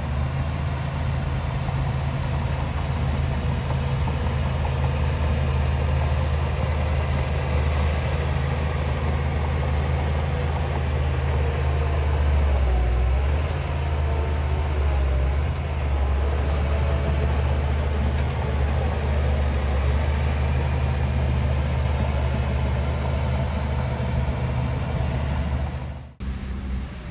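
Heavy diesel engine of earthmoving machinery running steadily at a deep, even note. The sound briefly cuts out near the end.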